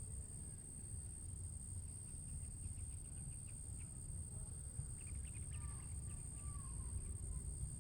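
Bird calls: a quick run of ticking chips, then a burst of chattering and a few short sliding calls just past the middle. Behind them runs a steady high insect drone and a low rumble.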